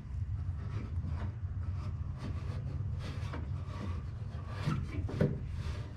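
A finger rubbing and scraping along a greased rubber window seal channel in a car door, in a run of short, uneven strokes.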